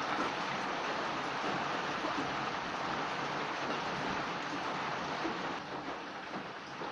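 Food frying in a hot metal pot as it is stirred with a wooden spatula: a steady sizzle that eases a little near the end.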